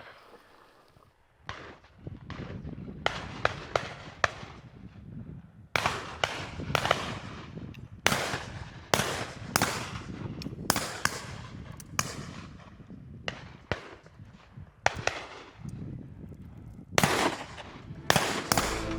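Shotguns firing repeatedly across a line of guns during a driven game-bird drive: sharp shots, single and in quick pairs, some loud and near, others fainter and further off, at irregular intervals.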